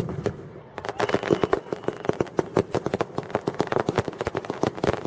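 Fireworks crackling: a rapid, irregular string of sharp pops, sparse at first and tightly packed from about a second in.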